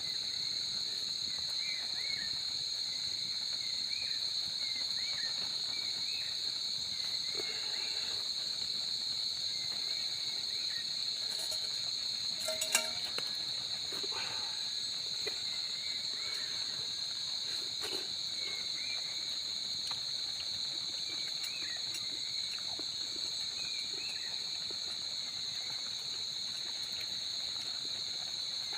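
Steady, high-pitched insect chorus, an unbroken shrill trill, with faint short chirps scattered over it. A single sharp knock about halfway through.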